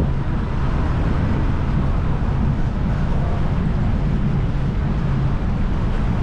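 Steady low rumble of wind buffeting the microphone on a moving bicycle, mixed with city street traffic noise.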